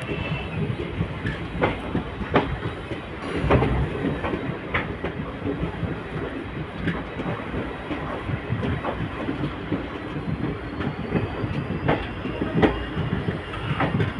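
Passenger train running along the track, a steady rumble with irregular clacks of the wheels over rail joints.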